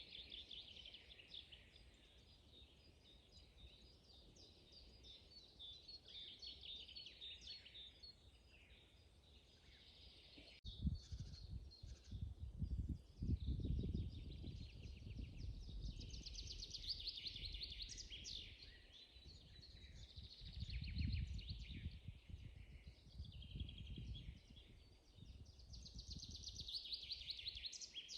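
Several songbirds singing in a spring forest: repeated trills and chirps that overlap and come and go. About a third of the way in there is a sharp click, and after it irregular low rumbling surges come and go under the birdsong.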